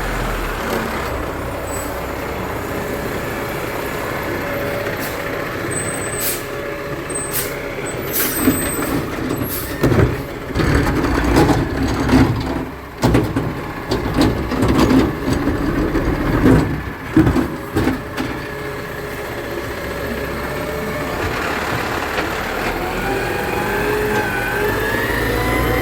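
Garbage truck engine running, with a few seconds of loud, irregular banging and clattering in the middle as the truck works. Near the end the engine pitch rises.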